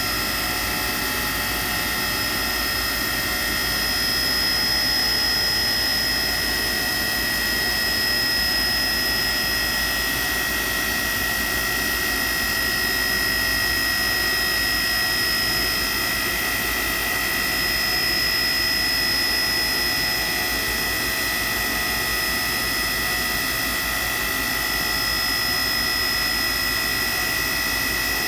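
Vertical machining center running under power: a steady mechanical hum with fixed high-pitched whines that hold level throughout.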